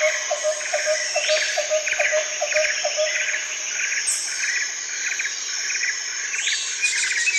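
Chorus of insects and birds: a steady high-pitched buzzing with a rhythmic chirp repeating two or three times a second that stops about three seconds in, over repeated bird calls.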